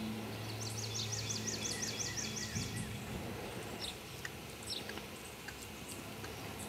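A songbird singing a rapid run of about a dozen repeated high notes, roughly five a second, with other single bird chirps scattered around it. Under it are outdoor background noise and a steady low hum that fades about halfway through.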